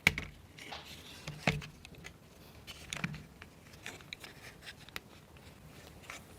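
Wooden model-kit parts being handled and fitted: several sharp clicks and knocks about a second and a half apart, with faint scraping between them.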